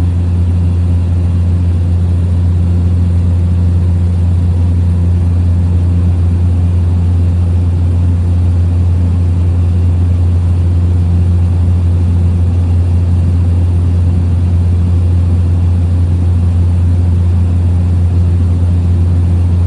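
Small plane's engine and propeller droning steadily at constant pitch in cruise, heard from inside the cabin.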